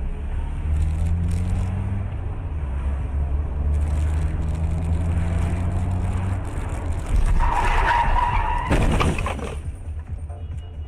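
Car engine running with rising pitch as it accelerates, then tyres skidding and squealing for about two seconds from around seven seconds in, ending in a short cluster of sharp knocks near nine seconds.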